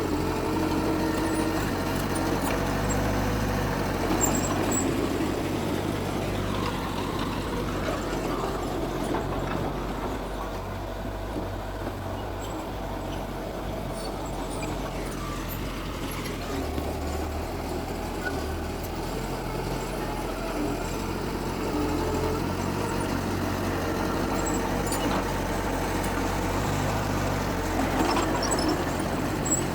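Heavy diesel earthmoving machinery running steadily, with the engine note shifting up and down now and then.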